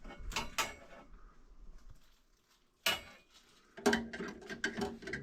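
Small metal parts clicking and clinking as they are handled, with a pause near the middle and then a sharp click.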